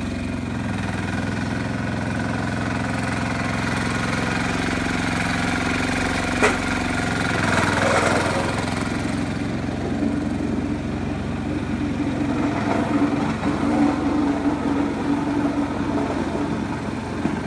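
Sears 8XL diesel garden tractor engine running steadily, with a single sharp click about six seconds in and a shift in the engine note about ten seconds in.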